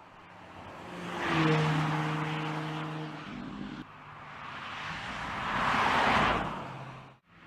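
Porsche Panamera Turbo's twin-turbo V8 heard going past on track, its engine and exhaust note swelling up and fading away twice. The second pass cuts off abruptly near the end.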